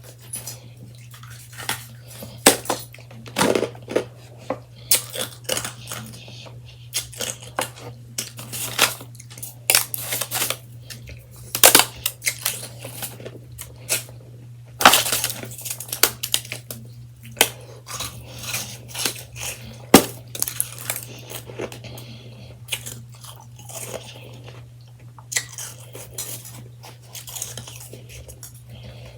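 Close-up crunching and chewing of freshly shaved ice, in irregular sharp crunches, over a steady low hum.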